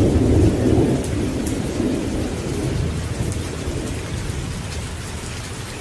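Thunderstorm: a deep roll of thunder, loudest in the first second and slowly dying away, over steady rain hiss with scattered drop patter.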